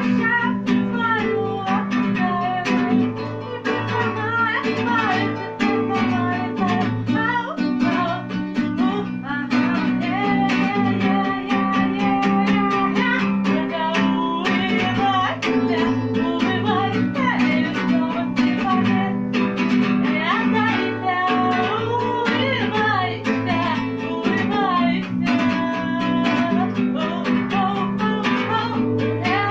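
Acoustic guitar strummed in steady chords while a voice sings a wavering melody over it.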